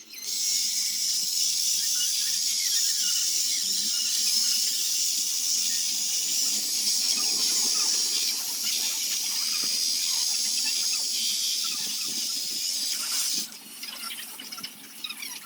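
A power tool working wood with a loud, steady, high-pitched hissing whine. It eases off about thirteen seconds in, then picks up again at the end.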